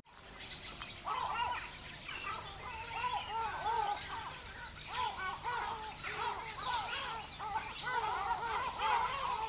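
A flock of birds calling: many short arched calls overlapping one another, growing slightly louder toward the end.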